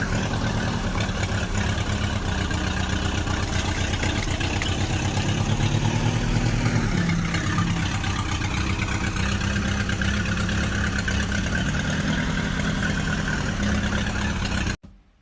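Mini tractor's engine running steadily at idle, with a fast even chug and a slight dip in pitch about halfway through; it cuts off suddenly near the end.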